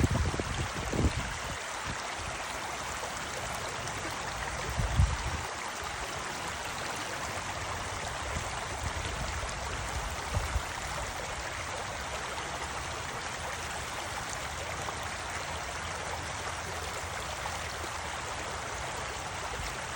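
Steady rushing of a flowing creek, with a few low buffets of wind on the microphone in the first second or so, about five seconds in and about ten seconds in.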